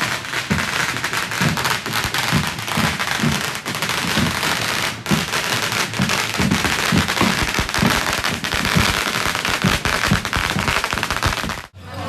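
Firecrackers going off in a dense, rapid crackle of many small bangs, cutting off abruptly near the end.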